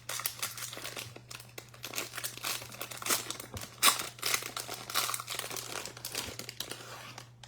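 Foil wrapper of a Topps Heritage baseball card pack being torn open and crinkled, an irregular run of crackles with a sharper snap about four seconds in.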